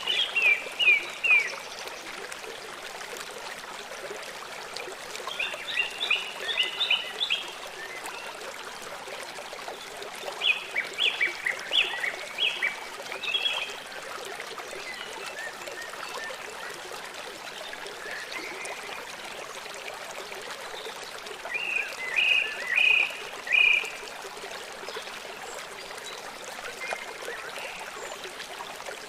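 Small songbird singing short phrases of a few quick, high notes, four times, with a steady hiss behind.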